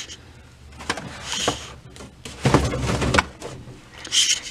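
Food containers being moved around in a fridge: a few knocks and scrapes, the longest about halfway through, then quick clicking and rustling near the end.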